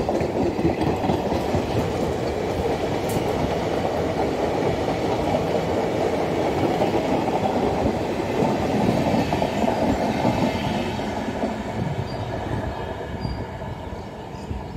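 ICF passenger coaches of an express train running past at speed, their wheels rumbling and clattering on the rails. The sound fades near the end as the last coach goes by.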